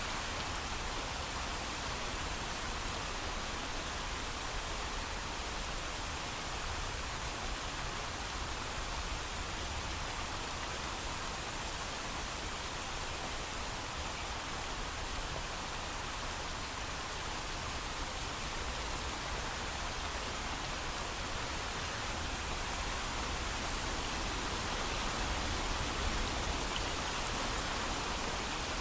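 Steady heavy rain, an even hiss without thunder.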